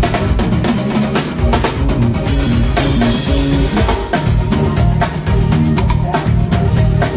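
Live band playing, with a drum kit keeping a steady beat of kick, snare and rimshot hits over bass notes; a cymbal wash rings out from about two seconds in for a second or two.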